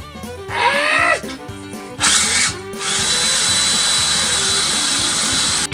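Power saw cutting into a truck's exhaust pipe to take off the muffler: two short bursts, the first rising in pitch, then a steady run of about three seconds with a constant high whine.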